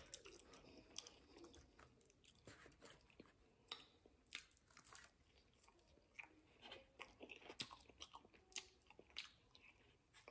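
A person chewing food close to the microphone: faint, irregular crunches and small wet mouth clicks.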